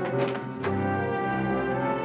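Orchestral dramatic underscore: sustained chords with brass, broken by a few short sharp accents.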